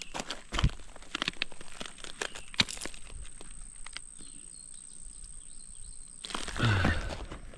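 Irregular clicks and knocks, as of handling gear or footsteps on stones, for about three seconds. Then a quieter stretch with a bird chirping faintly, and near the end a short rush of noise about a second long.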